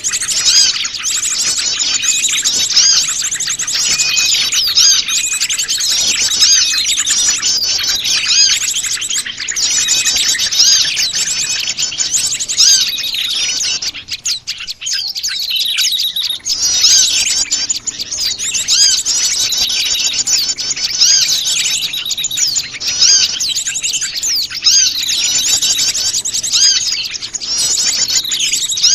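A busy, noisy chorus of many small wild birds chirping and calling over one another, a mixed flock used as a lure call for small birds. It thins out briefly about halfway through, then picks up again.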